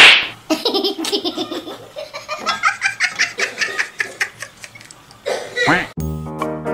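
Someone laughing hard in quick, repeated bursts for about five seconds. About six seconds in it switches to music with held notes.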